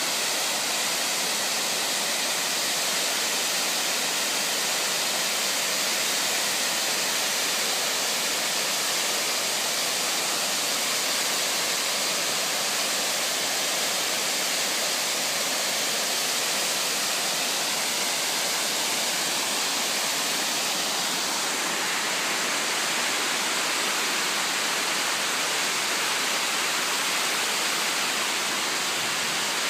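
Oshinkoshin Falls: water pouring down in a steady, dense rush of noise, shifting slightly in tone about two-thirds of the way through.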